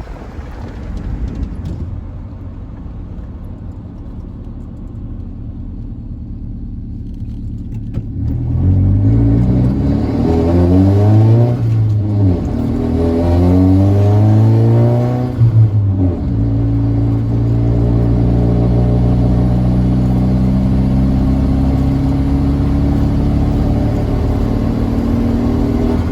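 A car engine running steadily, then louder from about eight seconds in, with its pitch rising and falling two or three times as it is revved or accelerated. It then settles into a steady, slightly higher-pitched run for the rest of the time.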